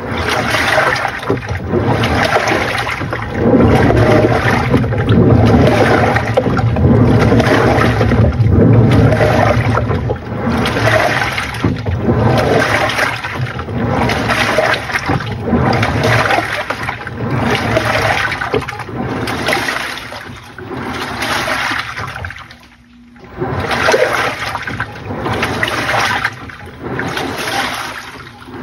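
Panasonic NA-FA80H8 top-loading washing machine churning water and laundry in its tub, the pulsator swishing back and forth in surges about once a second, with a short pause about three quarters of the way through before it starts again.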